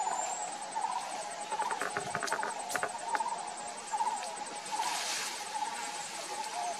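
Bush ambience: a bird gives a short warbling chirp about once a second, over a faint insect hiss with scattered clicks.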